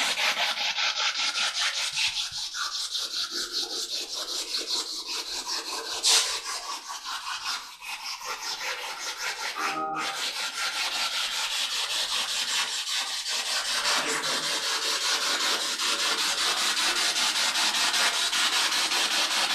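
Spirit box radio sweeping through stations: a continuous hiss of static chopped into a fast, even pulse, with a brief dip about halfway through.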